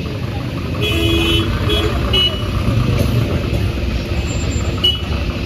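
Road traffic: vehicle engines running with a steady low rumble, and short horn toots about a second in, twice more soon after, and again near the end.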